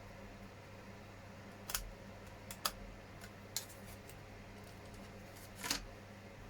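Small hard plastic model parts clicking and tapping as they are handled and pressed together, four sharp clicks over a steady low hum.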